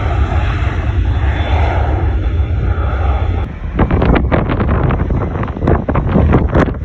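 Airplane engine noise from an aircraft flying past, loud and steady with a slowly shifting tone. About halfway through it gives way to irregular gusts of wind buffeting the microphone.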